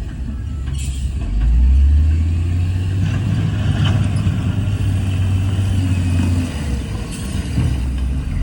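Heavy diesel engine of earthmoving machinery running with a deep rumble that swells under load about a second and a half in and eases off near the end, with a few brief knocks.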